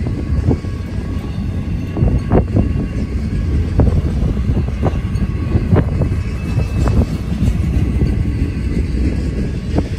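Double-stack intermodal well cars loaded with shipping containers rolling past at speed: a steady rumble of steel wheels on rail, broken by irregular sharp clanks and clicks.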